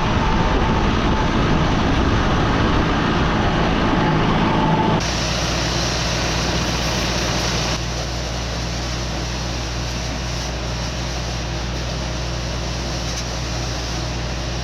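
Engine running steadily under load, in several short stretches whose sound changes abruptly about five seconds in and again near eight seconds.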